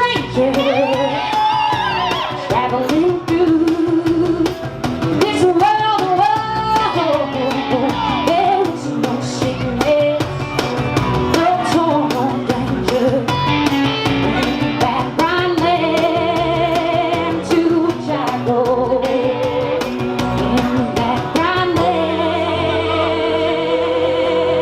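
Live band music: a singer over guitar accompaniment with percussion hits, holding a long wavering note near the end.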